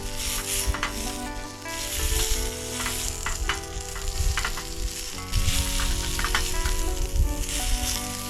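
Sausages sizzling on a grill over a wood fire, with frequent sharp pops and crackles over a steady hiss.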